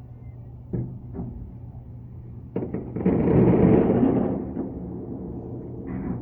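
Explosive blasts: a few sharp bangs, then a louder, noisy blast lasting over a second about three seconds in, and more bursts near the end.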